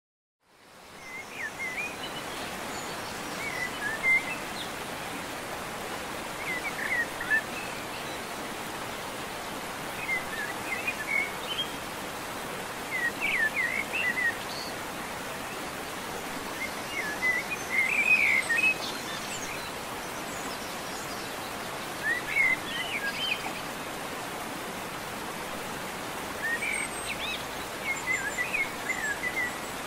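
Birds chirping in short bursts every few seconds over a steady rushing hiss, fading in over the first second or two.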